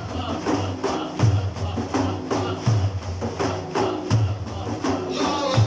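Frame drums with jingles beating a steady rhythm: a deep stroke about every second and a half, with quicker slaps and jingle rattles between.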